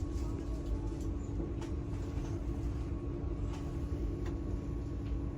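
Steady rumble of a moving passenger train heard from inside the carriage, with a constant low hum and a few faint clicks.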